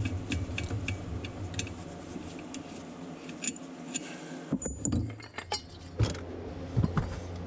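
Metal parts clinking and knocking as a heavy part is worked loose and lifted off a mower's engine by hand, with several sharp clinks and a few heavier knocks in the second half.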